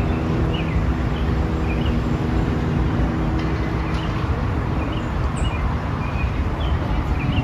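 Steady outdoor rumble of vehicle engines, with a low hum that fades out about four seconds in and short high chirps scattered over it.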